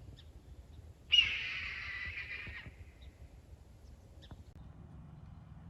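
A single harsh bird call starting suddenly about a second in, lasting about a second and a half and then fading.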